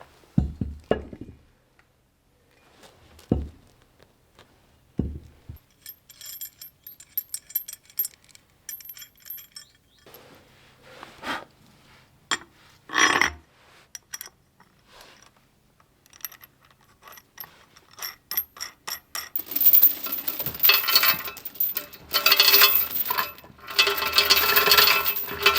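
A few dull knocks, then steel parts clinking and ringing against each other. The metal clatter grows denser and louder in the last several seconds.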